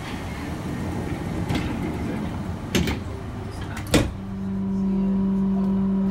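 Passenger train sounds: a rushing rumble with two sharp knocks, then a steady low hum that sets in about four seconds in and holds.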